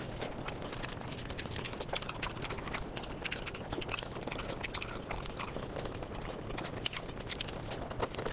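Close-miked mukbang eating sounds, sped up: dense, rapid chewing and crunching clicks.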